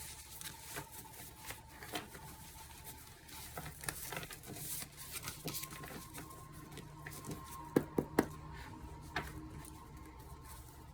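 Oracle cards being shuffled and handled, a run of soft clicks and taps with two sharper snaps about eight seconds in.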